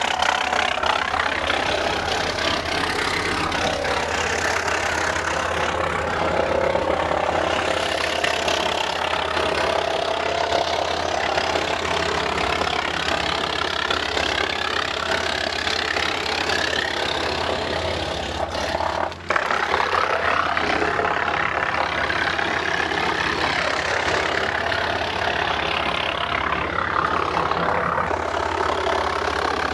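Tractor engine and the WC68's steel flywheel running at 540 RPM PTO speed, a steady mechanical drone whose pitch sags and recovers as eastern white cedar is fed through and chipped.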